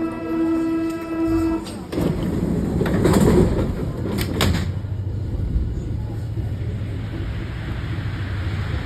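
Train, with a steady tone that cuts off about a second and a half in. Then comes sliding-door noise and a few sharp clicks, and after that a steady low rumble as the train runs.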